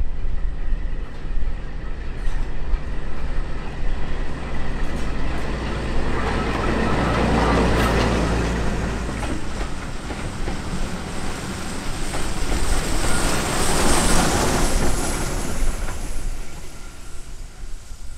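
Heritage train passing: a steady low engine rumble, then a louder rush of noise that swells about a third of the way in and again about three quarters in, before fading near the end.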